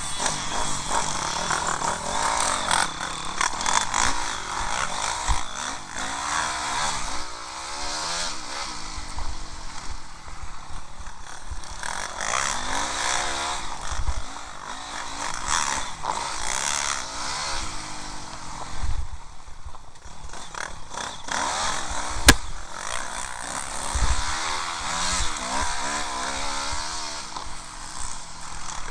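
Honda CRF250R four-stroke single-cylinder motocross engine revving up and down repeatedly as the bike is ridden hard, with wind noise on the helmet microphone. One sharp knock about three-quarters of the way through.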